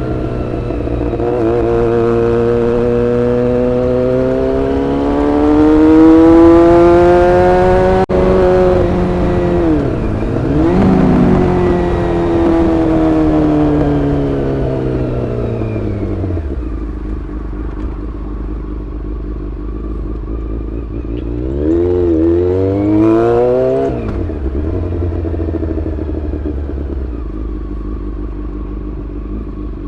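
Honda CBR400RR's inline-four engine under way: the revs climb steadily for several seconds, dip and pick up again around ten seconds in, then fall away to a steady lower note after about sixteen seconds, with one short rise and fall of the revs near twenty-three seconds.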